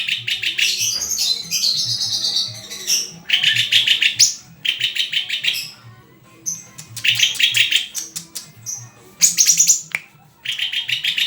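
Murai songbird singing in loud phrases of fast, rapidly repeated high notes, each phrase a second or two long with short pauses between.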